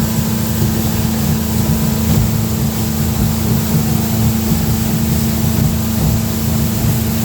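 Motorboat engine running at a steady speed, a constant hum.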